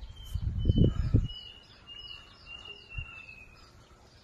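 A small bird singing a run of short, falling high chirps over a steady high note for about three and a half seconds. In the first second there is a louder low rumble, and a single low thump comes about three seconds in.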